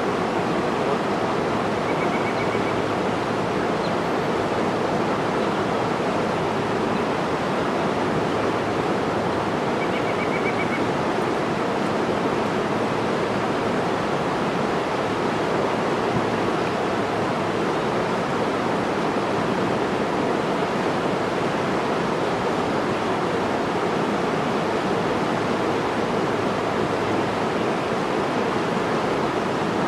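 Steady rushing water, an unbroken even roar with no rhythm of breaking waves. Two faint, brief trills sound over it, about two seconds in and about ten seconds in.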